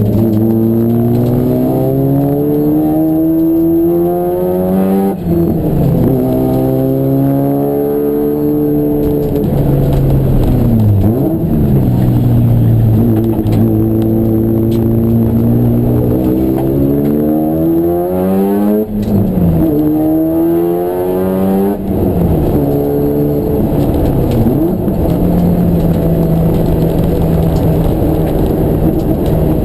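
Race car engine under hard acceleration. Its pitch climbs and then drops sharply at each gear change, four or five times, and falls away more slowly twice as the car slows.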